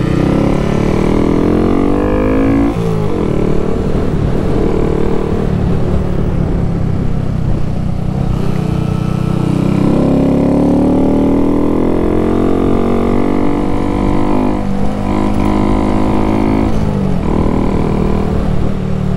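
Honda Grom's 125cc single-cylinder four-stroke engine heard from the rider's seat. It climbs in pitch under acceleration and drops sharply at each upshift: once about three seconds in and twice more near the end, with an easing-off between. A steady low wind rumble sits under the engine.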